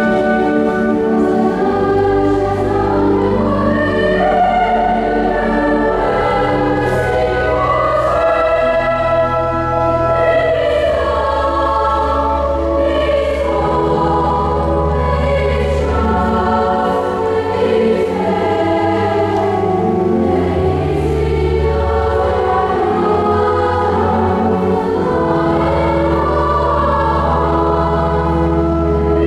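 A choir singing a slow sacred-style piece, accompanied by held low bass notes that change every couple of seconds, typical of pipe organ pedals.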